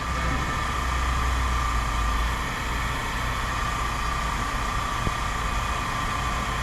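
Engine idling steadily: a low drone with a thin steady whine above it, and a small click about five seconds in.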